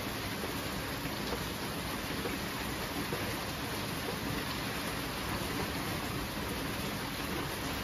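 Steady rain falling, an even hiss with no distinct drops, claps or rumbles standing out.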